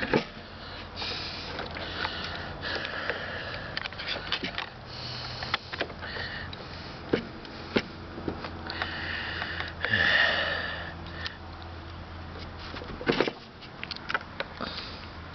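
Breathing and sniffing close to the microphone, with scattered clicks and knocks of hands working on the riding mower's loose battery connection; the engine is not running.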